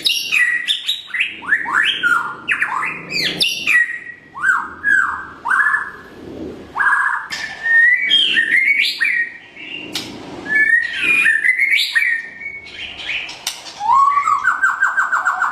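White-rumped shama singing: a loud, varied run of clear whistled notes that sweep up and down, mixed with sharp chips, ending in a fast, even trill of repeated notes near the end.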